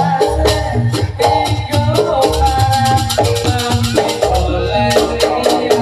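Jaranan Buto dance music: a stepping pitched melody over a fast, steady rhythm of sharp ticks, with deep low hits recurring about every second.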